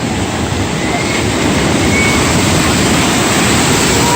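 Loud, steady rushing noise of surf and wind at the beach.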